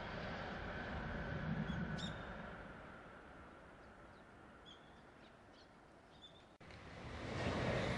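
Distant running noise of a Tokaido Shinkansen train on its viaduct, swelling briefly and then fading away over the first few seconds, leaving a few faint bird chirps. Near the end, after an abrupt break, another train's rushing noise rises.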